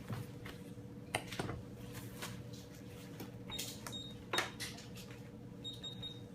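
Ultrasound machine humming steadily, with irregular clicks from its controls and two short high electronic beeps.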